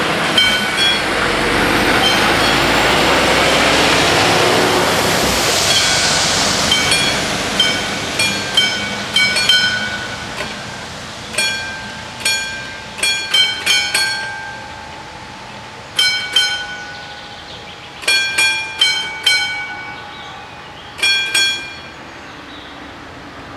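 A passing train's rumble over the level crossing, loudest in the first few seconds and then fading, while the crossing's two warning bells ring in uneven clusters of strikes. The bells stop shortly before the end.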